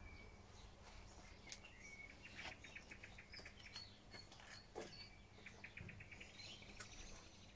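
Faint songbirds calling: short high whistles and two quick trills of rapid chirps, the first about two and a half seconds in and the second near the end, with a few soft clicks.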